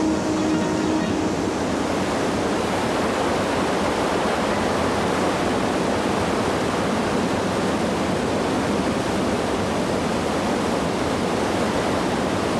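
Fast mountain water cascading over rock, a steady, even rush.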